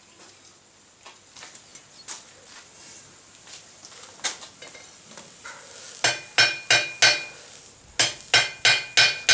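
Hammer blows ringing on steel, forming the head of a hot 6 mm steel rivet. Four quick strikes come about six seconds in and five more near the end, after faint small clicks and taps.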